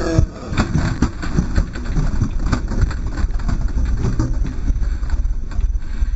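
A car driving, with a steady low rumble of road and wind noise and frequent small knocks and bumps throughout.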